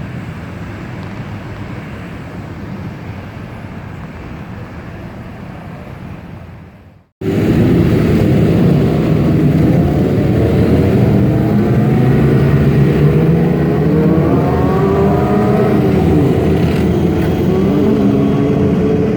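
Road traffic with car engines running: a steady rumble that fades, then after a sudden cut a louder stretch in which an engine's pitch rises and falls as it revs.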